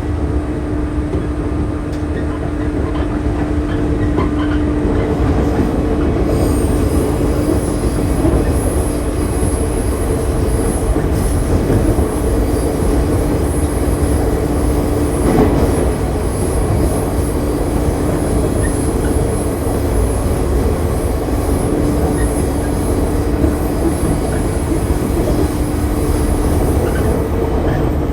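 Shinano Railway 115-series electric train heard from inside the car while running: a steady rumble from the wheels and bogies under a continuous motor hum. A faint high whine joins about six seconds in and drops out near the end.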